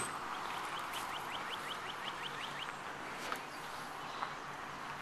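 A songbird's quick series of short rising chirps, about five a second, lasting a couple of seconds over a steady outdoor background hiss, followed by two faint clicks.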